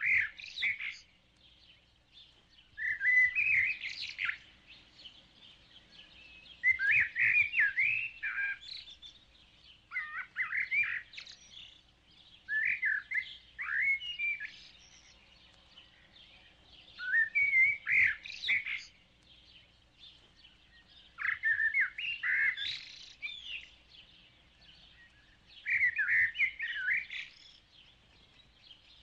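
A songbird singing short phrases of quick rising and falling notes, each about a second and a half long and repeated every three to four seconds, over a faint steady hiss.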